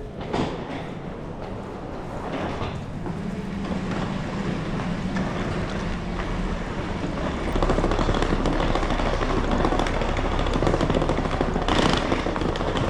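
Public-transport vehicle running, a steady rumble with some rattling, which gets louder about seven and a half seconds in.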